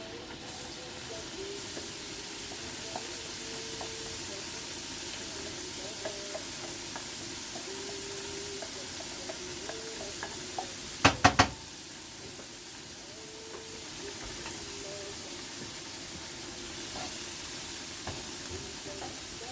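Chopped onion sizzling in oil and butter in a frying pan, with stirring. A little past halfway come three sharp knocks in quick succession, the loudest sounds here.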